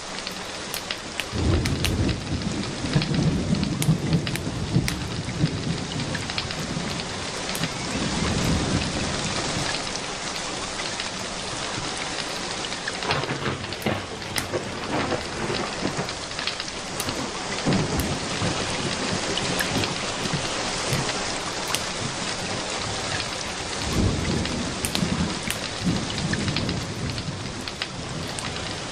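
Steady rain with scattered drops, and low rolls of thunder: one about a second and a half in, another around eight seconds in, and a third near the end.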